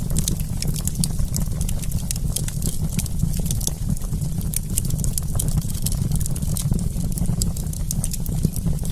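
Wood campfire crackling: a dense run of quick, sharp, irregular pops over a steady low rumble.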